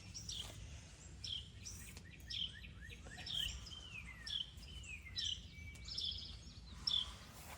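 Birds chirping: short, high, downward-sliding chirps repeated about once a second, with a few lower gliding notes, over a steady low background rumble.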